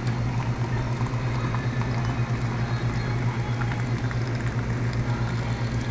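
A steady low mechanical hum with a fast, regular pulse in its loudness.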